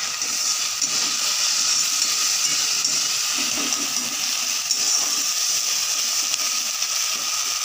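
Chopped onion, green chillies and ginger-garlic-onion paste sizzling in hot oil in a kadai as a steady hiss, stirred with a spatula.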